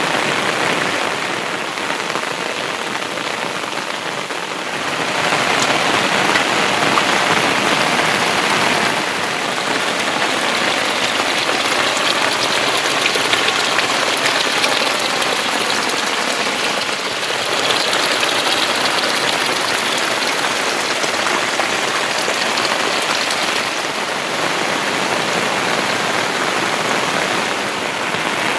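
Heavy monsoon rain falling steadily, easing a little a couple of seconds in and picking up again about five seconds in.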